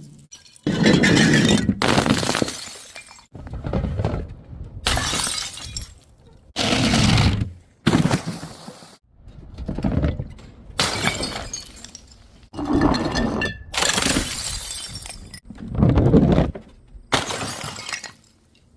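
Glass bottles smashing one after another: about a dozen separate crashes, each a sudden impact that rings out briefly and is often cut off abruptly.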